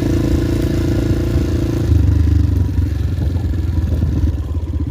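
Honda XR250 single-cylinder four-stroke dirt bike engine running, getting louder about two seconds in, then easing off near the end to a slower, pulsing beat.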